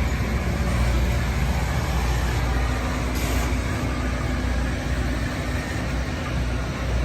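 Loram rail grinding train at work: its grinding stones on the rails and its engines make a steady, loud noise over a deep rumble.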